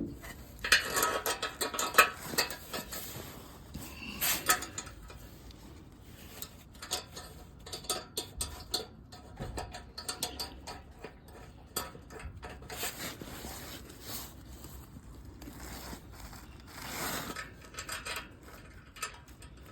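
Irregular metal clinks, scrapes and rubbing from hand work on a car's exhaust hanger bracket and tools, busiest about a second in.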